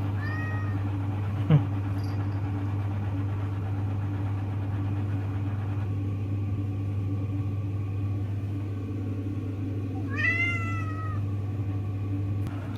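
A domestic cat meows twice: a short call at the start and a longer meow, falling in pitch, about ten seconds in. Under the meows runs the steady low hum of the front-loading washer, paused while its water heats, and there is a single sharp click a second and a half in.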